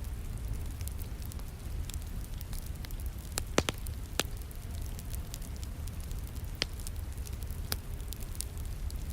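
Wood fire crackling in a fireplace, with scattered sharp pops, the loudest a quick cluster a little past the middle, over a steady patter of rain and a low rumble.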